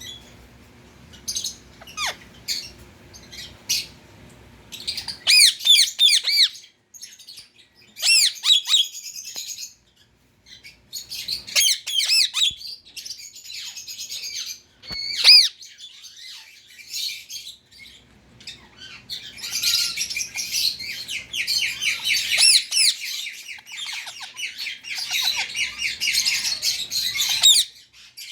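Indian ring-necked parakeet calling with shrill, high-pitched screeches in short bursts, then a long run of rapid repeated screeches near the end. A few faint clicks come before the first calls.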